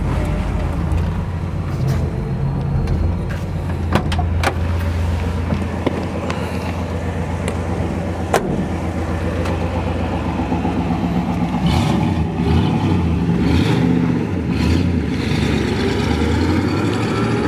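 1965 Pontiac GTO's 389 V8 running while the car is driven, a steady low engine note. A few sharp clicks come about four and eight seconds in, and the engine note changes about twelve seconds in.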